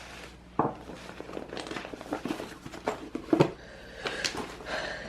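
Objects being handled and set down: irregular knocks and clicks, the sharpest about half a second in and again near three and a half seconds, with crinkling in between.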